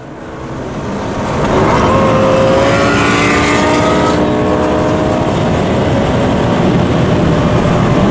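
Lamborghini Gallardo's V10 with a Quicksilver aftermarket exhaust under acceleration. It swells loud over the first second and a half, its note rising a little, then holds loud and steady.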